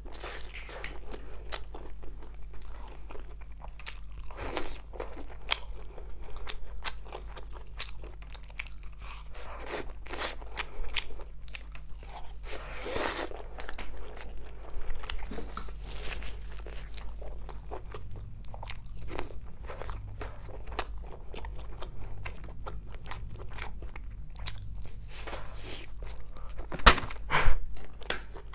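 Close-miked chewing and crunching of sauced skewered meat and sausage, a steady run of wet mouth clicks and crackles, with two sharp louder clicks near the end.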